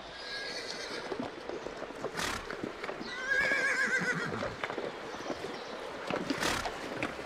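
Horse whinnying: one long, quavering call about three seconds in, with a short burst of noise a second before it and another near the end.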